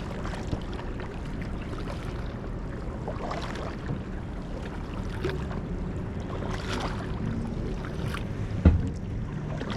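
Steady low outdoor noise of wind and water around kayaks, with faint distant voices and one sharp knock near the end.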